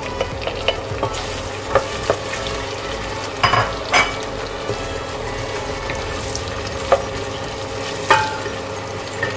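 Onions sautéing in a frying pan: a steady sizzle while they are stirred, with the spatula scraping and clinking against the pan several times.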